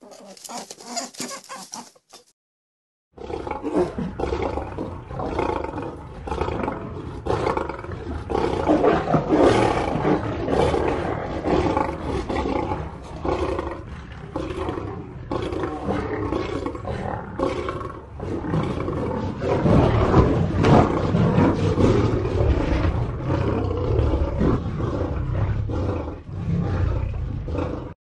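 A large animal roaring and growling almost without pause, starting about three seconds in after a brief silence.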